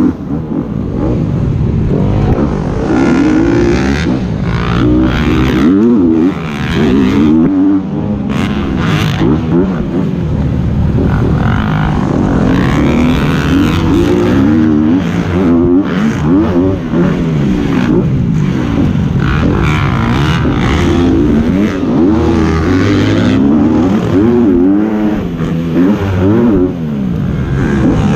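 Motocross dirt bike engines revving hard and rising and falling in pitch again and again, as the riders open and close the throttle and shift around the track.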